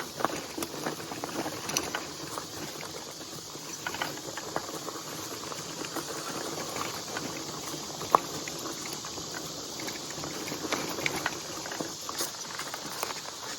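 An e-bike's tyres roll over a dirt trail with a steady crackling rustle, broken by frequent small clicks and knocks. One sharp click comes about eight seconds in.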